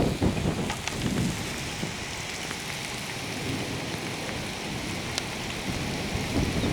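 Steady rain falling in a thunderstorm, with scattered drops ticking close to the microphone. A low rumble fades out in the first second and swells briefly again near the end.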